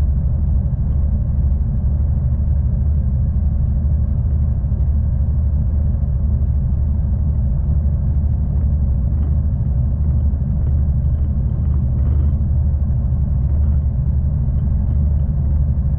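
V/Line passenger train running, a steady low rumble with a few faint clicks.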